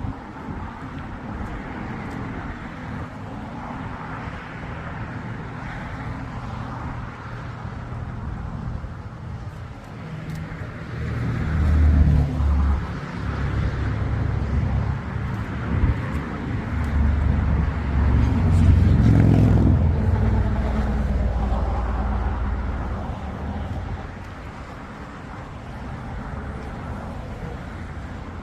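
Road traffic running steadily, with vehicles passing close by. A louder, deep rumble swells for about ten seconds in the middle, as a heavy vehicle goes past.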